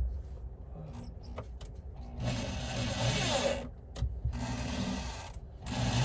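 Power drill driving a screw into wood in three short runs, its motor whine gliding up and down in pitch, the first starting about two seconds in. This is a trial of whether the short screws will hold the plywood wall.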